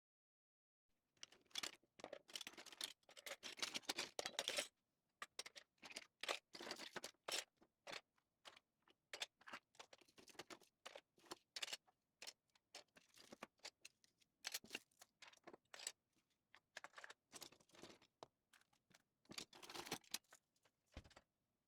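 Cutlery clinking and clattering as it is handled while a kitchen drawer is sorted. A dense run of rattling comes first, then scattered clinks and knocks.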